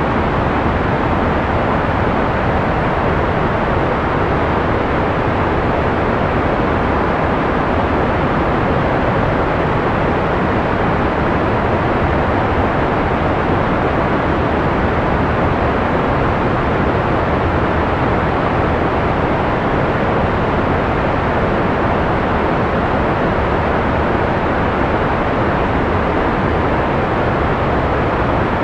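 Continuous analog white noise for sleep: an even, unchanging hiss with the treble rolled off, so it sounds like a soft, steady rush rather than a bright hiss.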